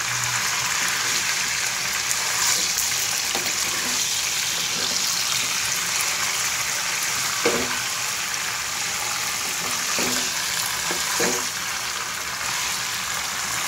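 Whole marinated chicken frying in hot oil in a non-stick pan: a steady sizzle, with a few brief knocks as the bird is handled and turned.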